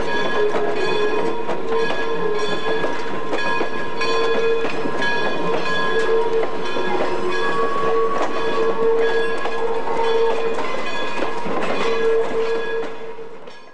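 Train of old wooden passenger cars and a caboose rolling slowly past, wheels clicking over rail joints and switches. A high, wavering squeal comes and goes throughout, typical of steel wheel flanges grinding on curved track. The sound fades out near the end.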